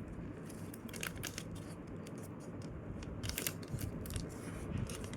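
A sheet of paper being folded and creased by hand, with soft intermittent rustles and crinkles of the paper several times through.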